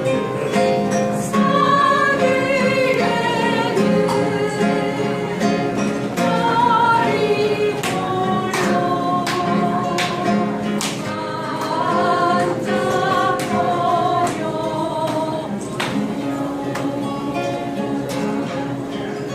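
Singing with acoustic guitar accompaniment, the voices holding and changing sung notes throughout.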